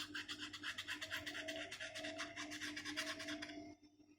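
Paintbrush scrubbed rapidly back and forth over wood, a fast scratchy rubbing of about ten strokes a second that stops shortly before the end. A faint low hum runs underneath.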